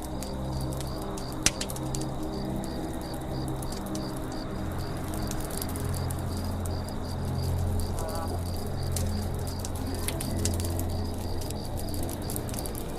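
Wood campfire crackling with scattered sharp pops, one loud pop about one and a half seconds in. Over it runs a high chirp that repeats about four times a second.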